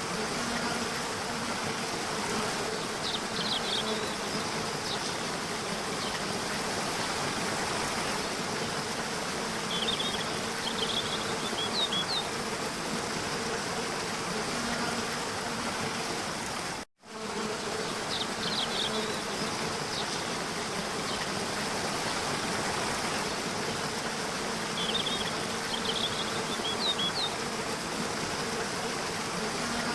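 Waterfall rushing steadily, with a low steady buzz like flying insects and short groups of high chirps every several seconds. The sound cuts out for an instant a little past halfway and the same track starts over.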